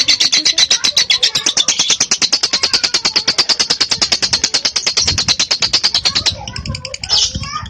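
Lovebird giving its long chattering trill ('ngekek panjang'): a fast, even rattle of sharp high notes, about a dozen a second, held for some six seconds before breaking off into softer chatter.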